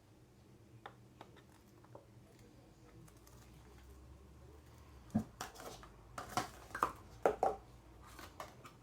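Light clicks and taps of small craft items being handled, a few faint ones at first, then a busier run of sharper knocks and clatter in the second half.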